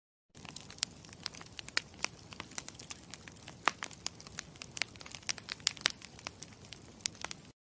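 Campfire crackling: irregular sharp pops and snaps of burning wood over a steady low hiss. It starts a moment in and cuts off abruptly near the end.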